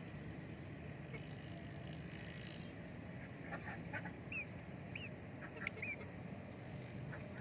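Ducks and chickens feeding, faint: a steady low background with scattered short clicks, and three short high chirps a little past halfway.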